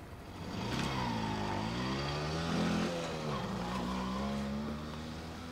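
A car engine accelerating, its pitch climbing, then dropping a little after three seconds as if at a gear change, and holding steady after that.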